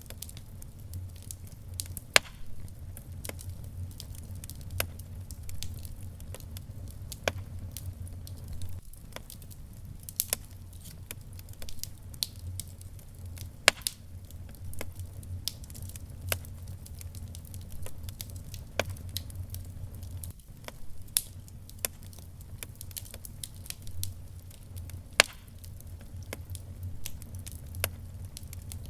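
Wood fire in a fireplace crackling: many small irregular pops with a few loud sharp snaps, over a low steady rumble.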